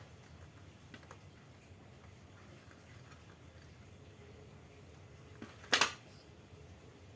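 Small clicks from parts of an electric fan's motor wiring being handled: one click about a second in, then a short, louder clatter of clicks near the end, over a faint low hum.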